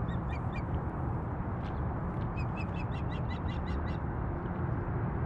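Ospreys calling: two series of short, high-pitched whistled chirps, a brief run at the start and a longer, faster run about two seconds in. Underneath is a steady low rumble of distant freeway traffic.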